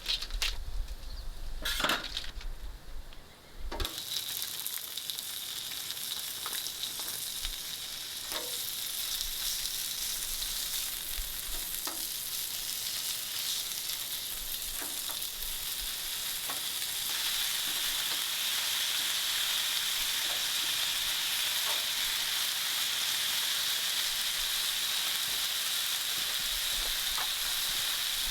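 Steady hiss of heavy rain with scattered drip ticks, growing louder about two-thirds of the way through.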